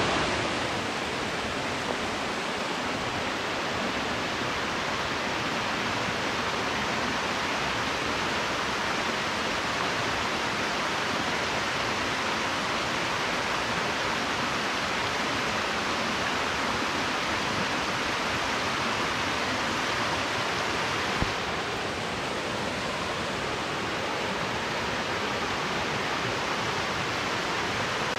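Waterfall: a steady, unbroken rush of falling water, with a small knock about three quarters of the way through.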